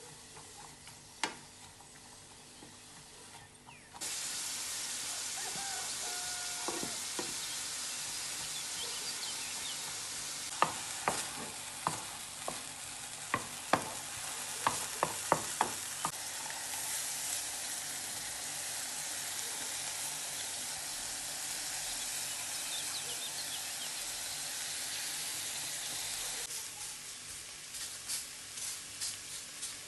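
Food frying in hot oil in a pan. The sizzle starts suddenly about four seconds in, a run of sharp utensil taps against the pan comes in the middle, and near the end the sizzle drops back, followed by a few more taps.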